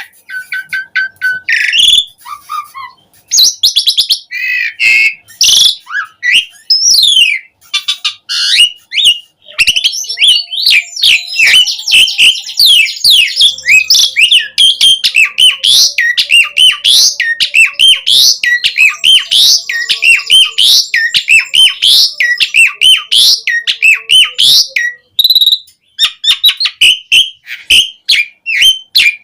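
Asian pied starling (jalak suren) singing loudly: a varied string of whistles and chattering notes, then a long fast run of quick repeated chirps through the middle.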